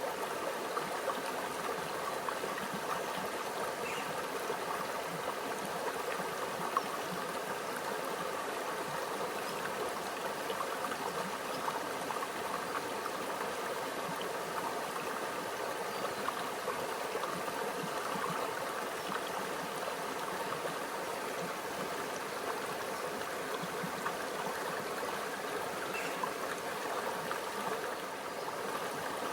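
A small, shallow stream running and trickling steadily over rocks, a continuous even wash of water with small gurgles.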